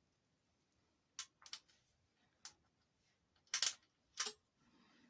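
Faint small clicks and clinks of beads and metal jewelry findings being handled, about five sharp ticks spaced unevenly, as a beaded bracelet with a jump ring is tried for fit.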